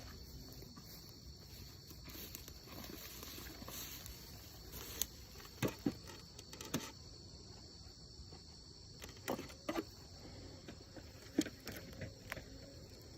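Scattered knocks and clunks of wooden beehive boxes being handled and set in place, over a steady high-pitched chirring of insects.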